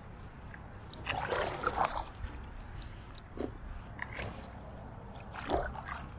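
Paddle blades dipping and pulling through creek water, a few irregular splashing strokes over a steady low rumble of wind on the microphone.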